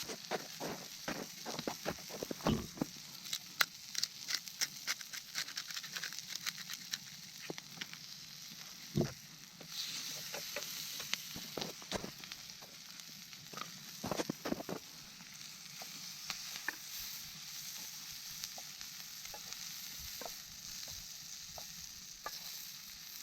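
Hot oil sizzling steadily as karaage (Japanese fried chicken) deep-fries, with frequent sharp pops and crackles and a few louder knocks.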